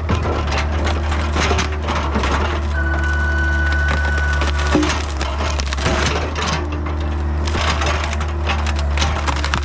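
Yanmar B50 excavator's diesel engine running steadily while wood cracks and splinters again and again as hickory branches are crushed and broken. A high steady whine sounds for about two seconds in the middle.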